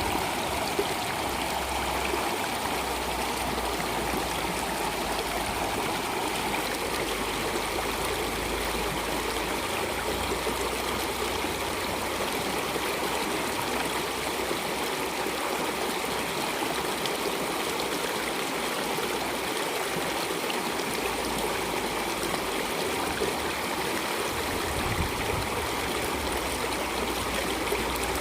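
Flowing stream water, a steady rushing sound with a low rumble that comes and goes.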